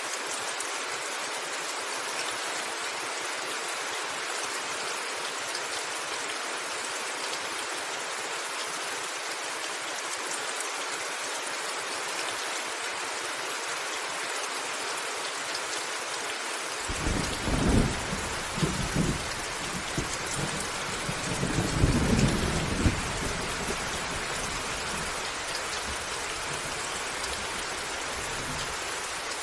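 Steady rain falling on a roof. About seventeen seconds in, a thunder rumble sets in for around ten seconds, loudest in two swells, then fades back under the rain.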